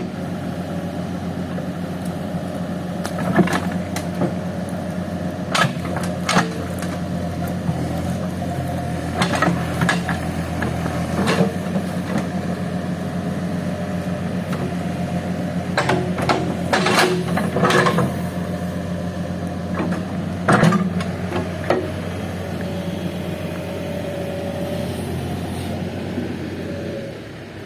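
Engine of a Case heavy machine running steadily under work, with scattered sharp clanks and knocks from its moving metal parts.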